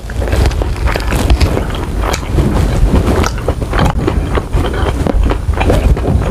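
Close-miked biting and chewing of a Korean-BBQ-sauce-glazed chicken wing: a run of irregular smacking clicks over a steady low rumble.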